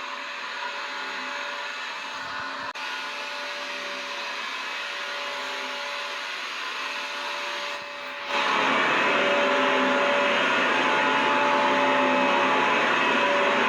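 Vacuum cleaner motor running with a steady whining hiss and a few held tones. It is quieter and thinner for the first eight seconds or so, then becomes louder and fuller from about eight seconds in.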